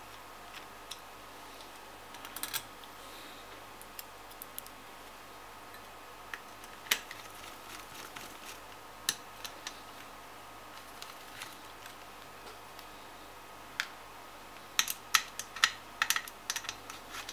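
Scattered small clicks and taps of a screwdriver and small screws being fitted into a graphics card's heatsink, with a quick run of clicks near the end.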